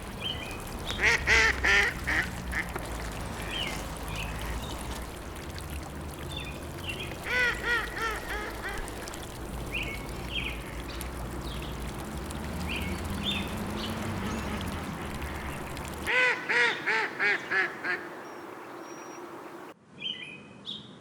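A large bird calling in three runs of quick, repeated calls, with smaller birds chirping over a steady background hiss. Near the end the background drops away abruptly, leaving a few chirps.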